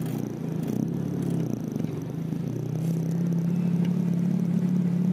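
Nissan Sentra's engine and road noise heard from inside the cabin while driving. The engine note dips briefly about a second and a half in, then comes back and holds steady and a little louder.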